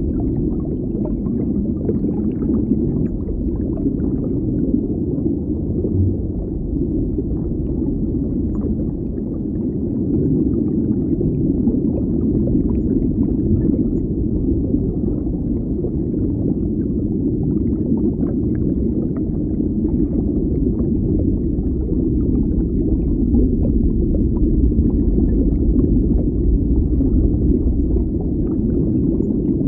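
Underwater ambience: a steady low, muffled rumble of moving water, with faint scattered bubbly ticks over it.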